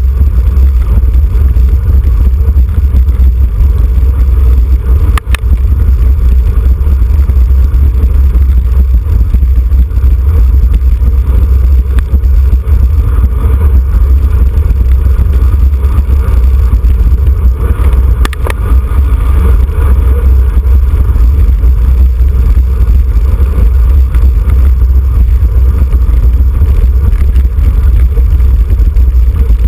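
Wind buffeting the microphone of a camera on a moving road bicycle: a constant loud low rumble, with a sharp click about five seconds in and another at about eighteen seconds.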